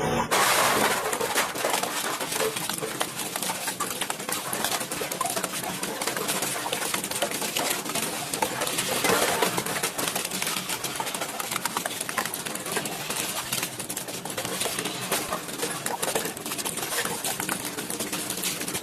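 Double-shaft shredder crunching and tearing material, a continuous dense crackle of many small breaks and grinding.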